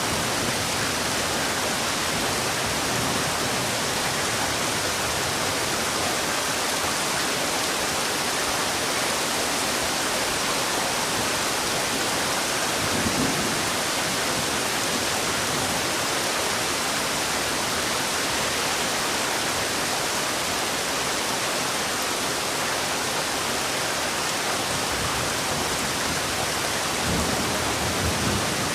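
Heavy rain falling steadily, a dense even hiss, with brief low rumbles about halfway through and again near the end.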